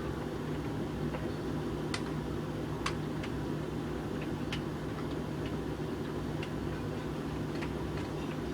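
Hoover VHV680C tumble dryer running on a bone dry programme with a load of coloureds: a steady hum and drum rumble, with sharp clicks at irregular moments as the load tumbles.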